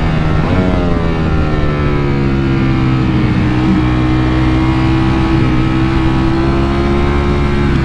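Ducati Panigale V4's V4 engine running under way at steady revs, its pitch dipping briefly near the start and then holding almost level with a slight rise.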